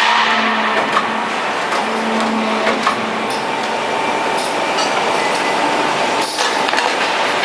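Steady running noise of hydraulic truck-frame riveting machinery, with a constant hum, a steady high tone and a few sharp metallic clicks.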